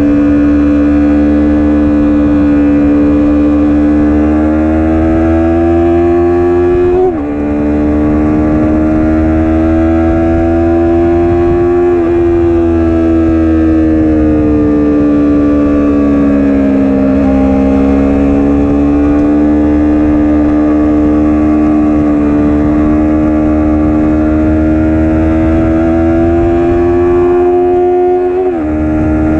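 Stock Yamaha R3's parallel-twin engine heard from the rider's seat, pulling hard with its pitch climbing slowly. The pitch drops sharply at two upshifts, about seven seconds in and near the end, and sags briefly once in between as the throttle eases.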